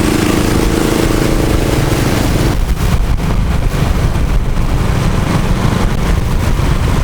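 A motor vehicle engine running close by: a steady hum for about the first two and a half seconds, then a rougher, noisier rumble.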